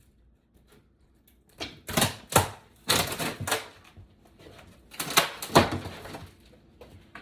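Sharp cracks and knocks of old layered linoleum flooring being pried up with a flat bar. They come in two clusters about three seconds apart.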